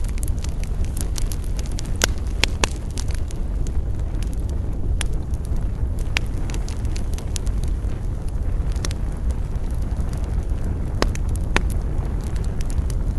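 Wood campfire crackling, with irregular sharp snaps and a few louder pops over a steady low rumble.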